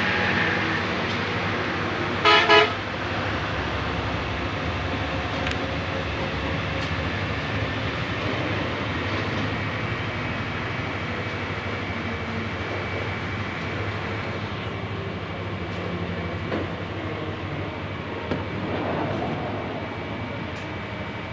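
Steady traffic and engine noise, with a vehicle horn sounding two short toots about two seconds in.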